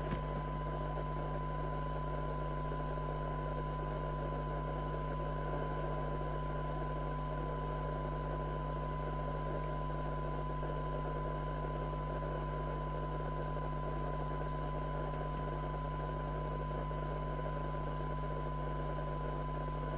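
A steady 1 kHz test tone through hiss from the receiver of a Mustang CB3000 FM CB radio, over a low steady hum. It is a weak test signal being received during a SINAD sensitivity check.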